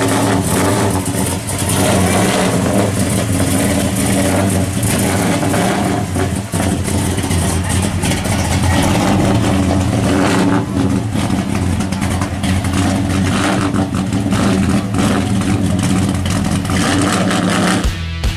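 1955 Chevy gasser's engine running loudly, idling with occasional revs.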